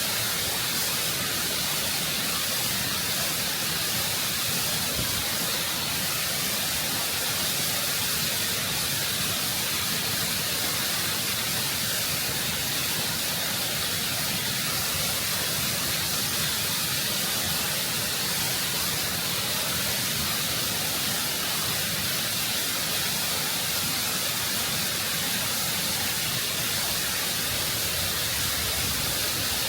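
Waterfall close up, heavy water cascading over rock in a steady, full rush with a hissing top.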